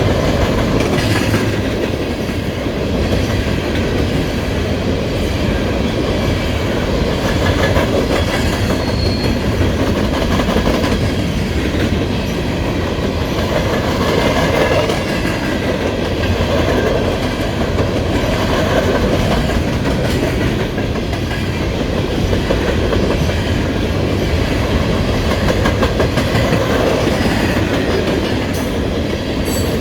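Freight train of loaded coal hoppers rolling steadily past, a continuous rumble with wheels clicking over rail joints.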